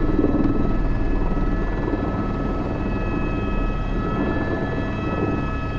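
Airbus H125 (AS350 B3) helicopter running steadily, heard from inside the cockpit: even rotor and engine noise with a constant high turbine whine.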